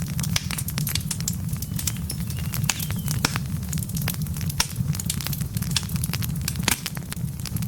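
Wood fire of burning logs in a fireplace crackling, with irregular sharp pops over a steady low rumble of the flames.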